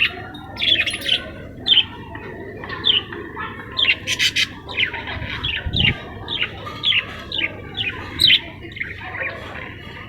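Budgerigars chirping and chattering: a string of short, sharp, downward-sweeping calls over a continuous warbling chatter, with a harsher squawk about four seconds in.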